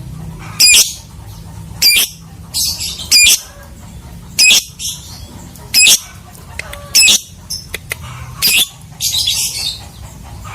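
Lovebird giving short, high-pitched calls, about one a second, over a low steady hum.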